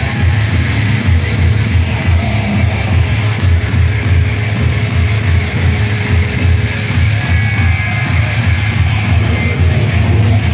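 Heavy metal band playing live, with distorted electric guitars, bass and fast, steady drumming, recorded loud from the crowd.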